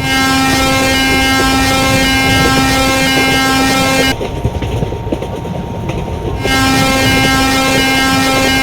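Locomotive air horn of the Howrah Rajdhani express blowing two long steady blasts, the first about four seconds long and the second starting about two seconds after it ends, with the train's running rumble in the gap.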